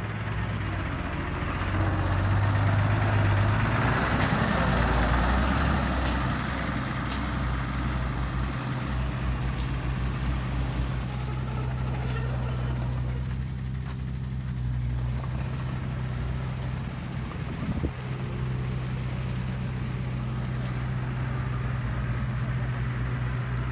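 Heavy truck's diesel engine running steadily, louder and rougher for a few seconds near the start, with a single sharp knock later on.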